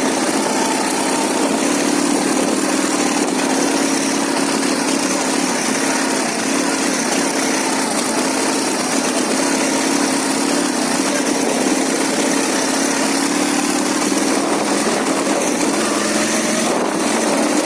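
Ural motorcycle's flat-twin engine running steadily, its pitch holding nearly level throughout.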